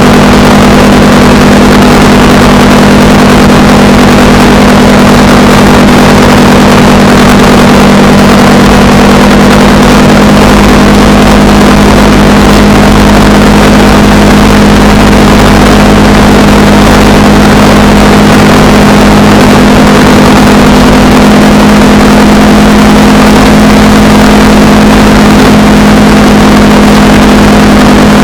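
Honda Rebel 300's single-cylinder engine running loud and steady at an even cruising speed, under a constant rush of road and wind noise.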